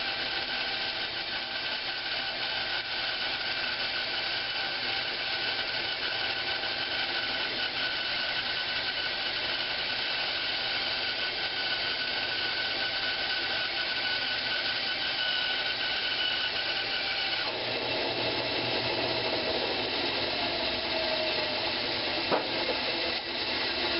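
Power saw running steadily while cutting old pine 4x4 blocks in half. Its tone shifts about two-thirds of the way through, a high steady whine giving way to lower tones.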